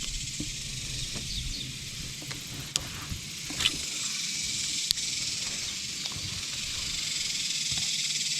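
Steady high-pitched buzz of summer insects such as cicadas, over a low hum, with a few light clicks.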